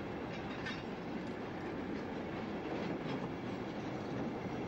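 A train running along the track: a steady rumble with a few faint clicks of wheels over rail joints.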